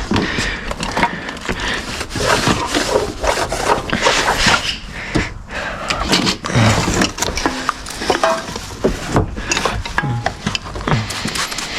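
Irregular knocking, clattering and scraping of hard plastic car interior trim and loose parts being handled and pulled out from behind the seats.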